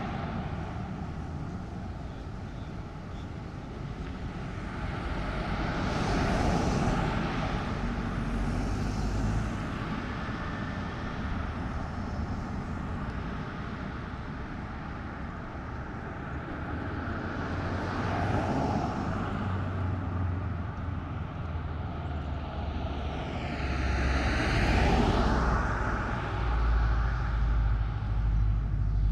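Street traffic: several vehicles pass by one after another, each swelling up and fading away over a low steady rumble. The loudest pass comes near the end.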